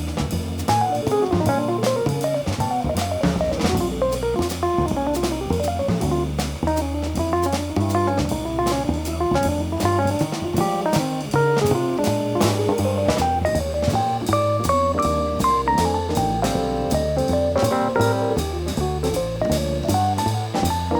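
Small jazz group playing live: a guitar plays a fast, flowing melodic line over bass and a drum kit.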